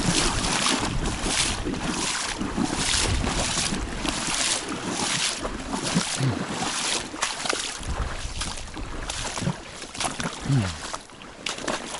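River water splashing in short, repeated washes about twice a second, over a steady hiss of moving water, with wind rumbling on the microphone.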